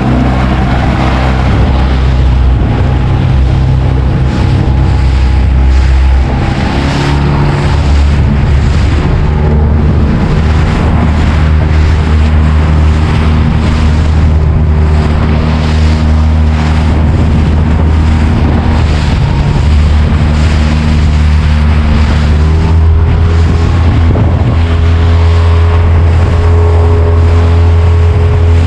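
Small fishing boat's outboard motor running under way, a steady engine hum that steps up in pitch about 7 seconds in and again about 23 seconds in as the throttle is opened.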